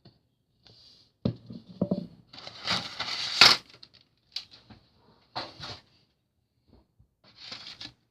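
Packaging being handled while a boxed model airplane is unpacked: irregular bursts of rustling and crinkling with a few sharp knocks, loudest about three and a half seconds in.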